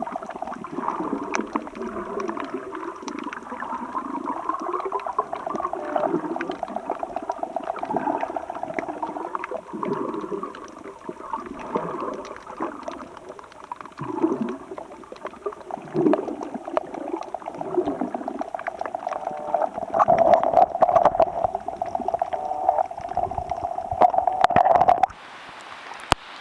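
Shallow sea water gurgling and sloshing in uneven swells. About a second before the end it cuts to a quieter, steady hiss.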